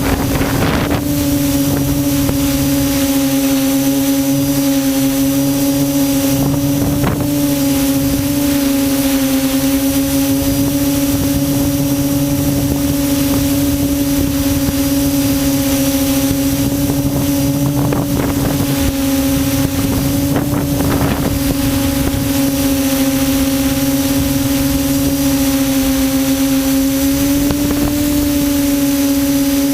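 Quadcopter's electric motors and propellers humming steadily in flight, picked up by the onboard camera with wind noise on the microphone; the pitch wavers slightly a few times.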